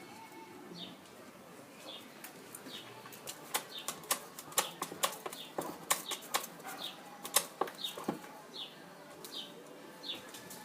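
A small bird chirping over and over in short, falling chirps about every two-thirds of a second, with a run of sharp clicks or taps in the middle.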